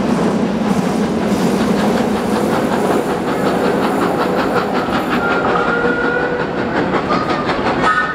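Trains passing on the London Underground, a tube train and a heritage train of wooden carriages, wheels clattering over rail joints in a quick, even clickety-clack that grows plainer about halfway. A faint high squeal comes and goes near the end.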